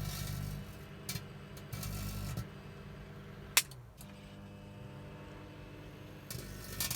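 Microwave oven running with a steady low hum, with short bursts of crackling from electrical arcing and plasma inside it, and one sharp snap a little past halfway.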